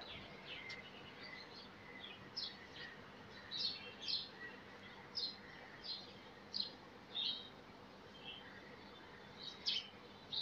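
Birds chirping: a dozen or so short, high chirps at irregular intervals over a faint steady hum.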